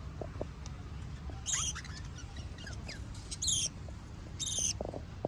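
Cage birds chirping: a few short, high calls come in separate bursts over a steady low hum.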